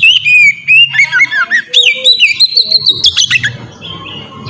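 Oriental magpie-robin (kacer) singing: a fast run of loud whistled notes that slide up and down, with short trills, fading out about three and a half seconds in.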